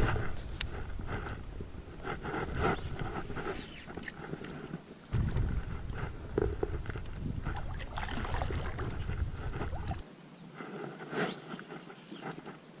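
Kayak out on a pond: water sloshing and paddle swishes with scattered light knocks, over a low rumble that stops about ten seconds in.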